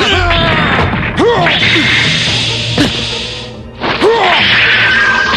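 Cartoon fight sound effects: a few sharp whacks with swishing noise and short effort cries, over background music.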